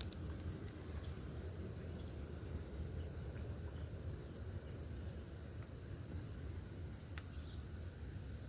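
Insects chirping in fast, very high-pitched pulsing trills that come and go, over a steady low rumble of outdoor background noise.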